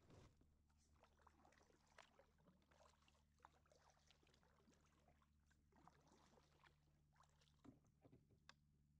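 Very faint kayak paddling: scattered light knocks and splashy ticks of the paddle and water against the hull, over a steady low hum.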